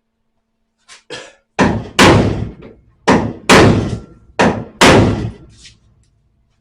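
Hammer blows on the car's sheet-steel panel at the spare wheel well seam: two light taps, then six loud ringing strikes in three pairs, knocking the seam out slightly so the new and old pieces line up for welding.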